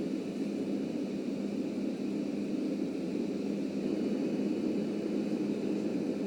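Subway train running on the line: a steady, even rumble with a constant low hum underneath, unchanging throughout.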